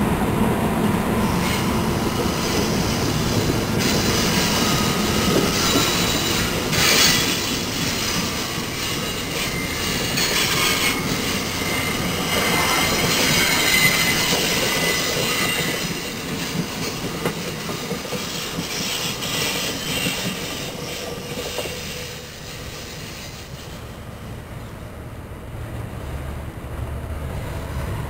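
New Jersey Transit passenger coaches rolling past on the rails, wheels squealing with some clickety-clack. The sound fades over the second half as the train pulls away.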